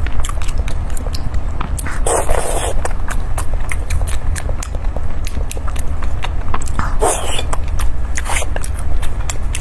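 Close-miked wet chewing and mouth sounds, with many quick moist clicks and smacks throughout, and two louder noisy bursts of biting about two seconds in and about seven seconds in.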